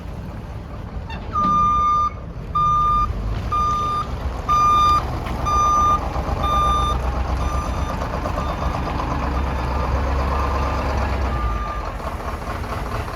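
Backup alarm on a 1984 Chevrolet single-axle tank truck beeping about once a second as the truck reverses, with the engine running underneath. The beeps grow fainter after about seven seconds while the engine gets louder.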